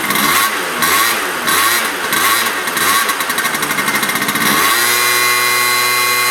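Heavily modified 1991 Yamaha motorcycle engine being revved in quick blips about twice a second. From about two-thirds of the way in it holds a steady high engine speed.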